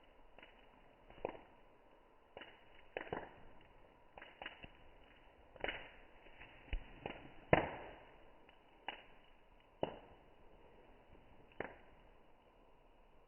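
Campfire crackling: burning wood gives sharp pops at irregular intervals, the loudest crack about seven and a half seconds in.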